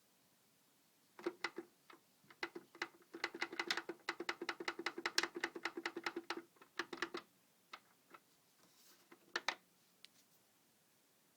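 Holmes humidifier giving off rapid, irregular clicking and popping in bursts, densest for a few seconds in the middle, then two last pops.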